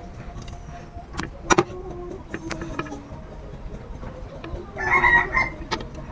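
A few sharp knocks, and a chicken calling briefly about five seconds in.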